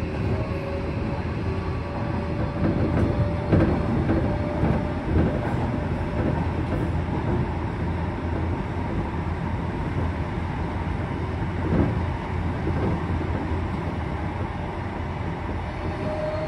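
Tobu 70000 series commuter train running, heard inside the passenger car: a steady rumble of wheels on rail with a faint motor whine. Louder clunks from the track come about three and a half seconds in and again near twelve seconds, and the whine starts to rise in pitch near the end.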